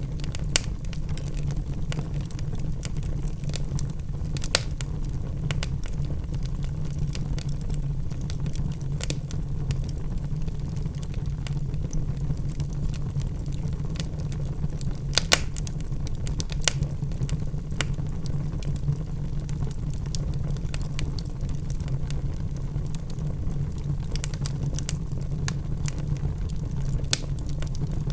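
Wood fire burning in a fireplace: a steady low roar of flame with scattered sharp crackles and pops from the logs, a few of them louder than the rest.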